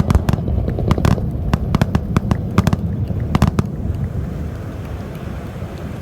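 Fireworks crackling: a rapid, irregular string of sharp pops over a low rumble, thinning out after about three and a half seconds.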